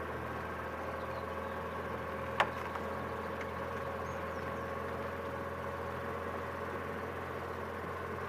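Boat engine running steadily at low revs, a constant even hum, with one sharp knock about two and a half seconds in.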